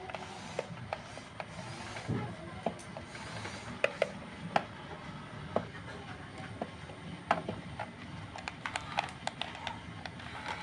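Small electric motors and gearing of radio-controlled model construction machines running with a low whir, broken by irregular sharp clicks and knocks.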